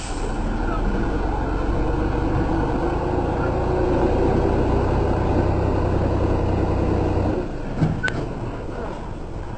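Heavy truck engine running hard under load, its steady drone swelling a little and then dropping away abruptly about seven seconds in.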